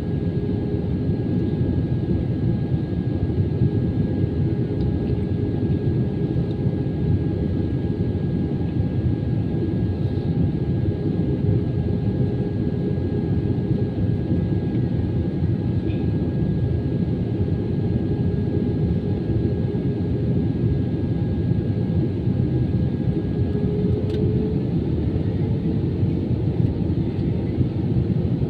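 Steady rumble of an Airbus A320-214's CFM56 engines and cabin air, heard from inside the cabin while taxiing after landing. A steady hum in the noise rises slightly in pitch near the end.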